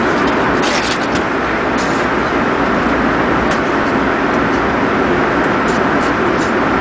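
Steady airliner cabin noise: the constant roar of jet engines and airflow heard from inside the passenger cabin, with a few faint light clicks.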